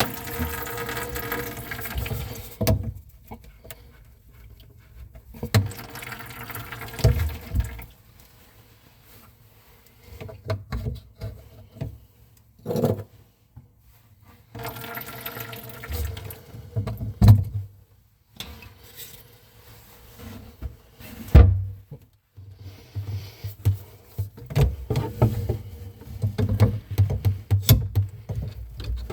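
Water rushing for about two and a half seconds, then irregular knocks, clunks and rattles of plumbing tools and fittings being handled during an angle stop change on PEX pipe.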